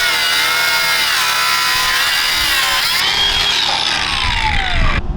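A power tool running hard under load, its whining pitch wavering and sagging, with one tone gliding down before it cuts off suddenly near the end.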